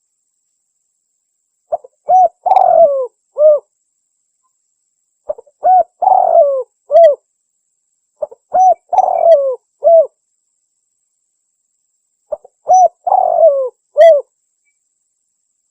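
Spotted dove (tekukur) lure call, sounded four times, about every four seconds. Each phrase has a few short hoots, a longer, rougher coo that falls in pitch, and a closing hoot.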